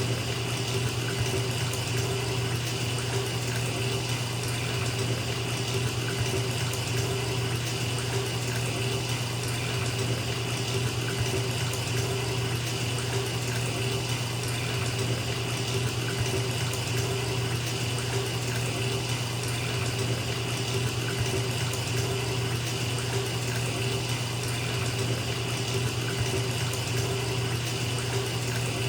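Bathtub tap running, water pouring steadily into a filling tub as an unbroken rush of white noise with a low hum underneath.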